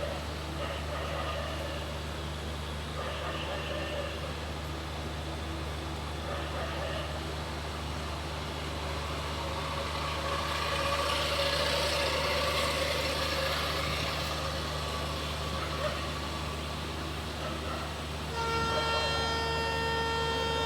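Steady low hum of a train standing at a railway station, with faint voices in the background. About 18 seconds in, a train horn starts one long, steady blast.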